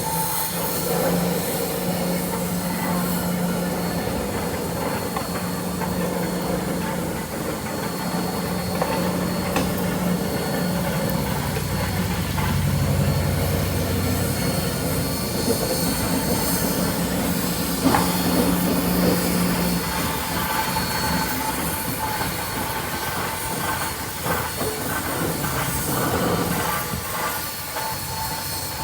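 A train rolling by: the steady rumble of railcars on the track, with a low engine hum that comes and goes and a thin, high wheel squeal running through it.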